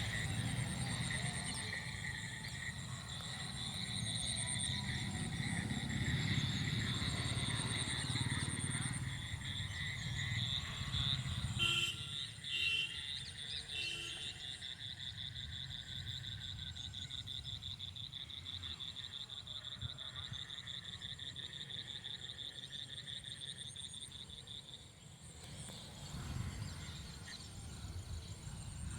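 An outdoor chorus of calling animals: steady, pulsing high trills, typical of frogs or insects before rain. There is a low rumbling noise underneath for the first ten seconds and again near the end, and three short calls about halfway through.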